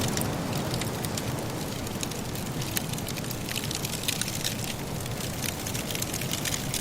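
Firewood crackling in a fireplace: many small irregular pops and snaps over a steady low rush of wind from a soft blizzard.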